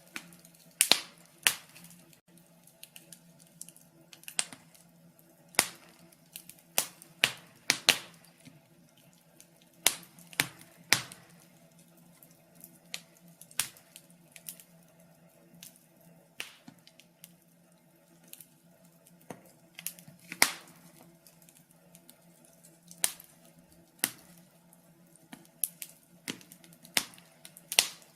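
Wood fire burning in a fireplace, crackling with irregular sharp pops and snaps, some in quick clusters, over a faint steady low hum.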